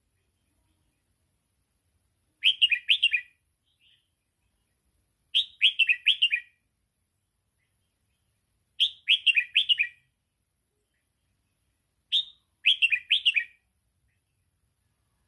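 Red-whiskered bulbul singing its 'double'-style (sai beun) song: four short phrases of quick, clear notes, each about a second long, repeating every three seconds or so with silence between them.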